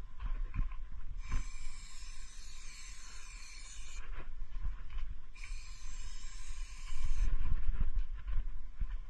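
Spray paint can hissing in two bursts of two to three seconds each, each starting and stopping sharply, over a steady low rumble.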